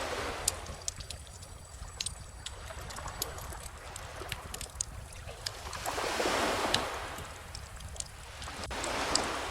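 Wood bonfire crackling with frequent small sharp pops over calm ocean waves washing in. Three waves swell up and fall away: one at the start, a louder one about six seconds in, and one near the end.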